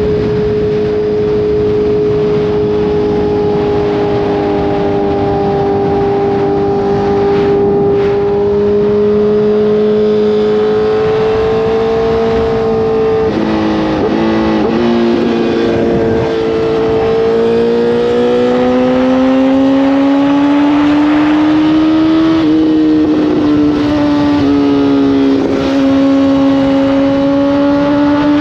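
Honda CBR1000RR inline-four engine under way with wind noise: steady cruising for about the first half, a choppy moment of throttle changes, then the engine climbs in pitch under acceleration with short drops as it shifts gears.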